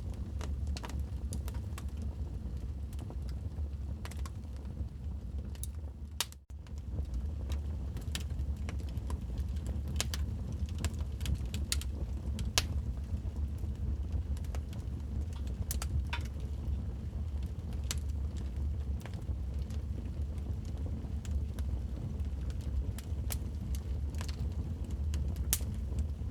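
Wood fire crackling in a fireplace: irregular sharp pops and snaps over a steady low rumble of the flames, with a brief dip about six seconds in.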